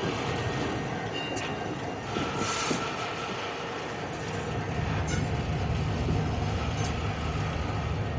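Former Rio Grande diesel locomotive, patched for Union Pacific, moving rail cars through a yard: a steady rumble of engine and rolling wheels that grows louder about halfway through, with a few brief high-pitched sounds from the train.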